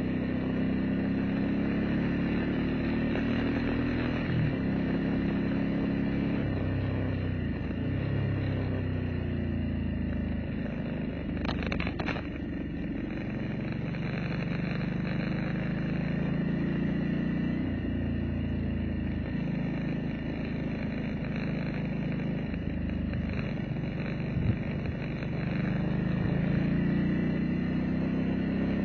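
A vehicle's engine running on the road, its pitch rising and falling several times as speed changes, over steady road noise. There is a brief clatter of knocks about twelve seconds in and a single sharp tick near the end.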